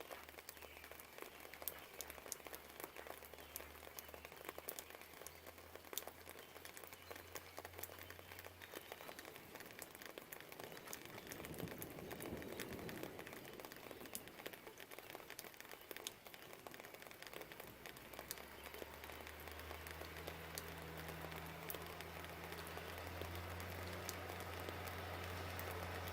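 Rain, with drops ticking sharply, over the low hum of distant traffic. A vehicle's engine hum swells near the end, growing louder.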